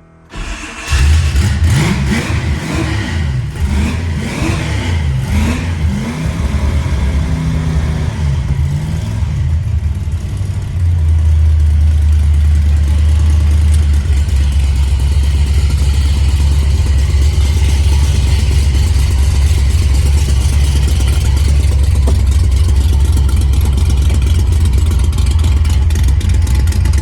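Fox-body Ford Mustang engine cranks and fires about a second in, revs up and down for several seconds, then settles into a loud, steady idle from about halfway through. Its exhaust sounds just like a dump truck.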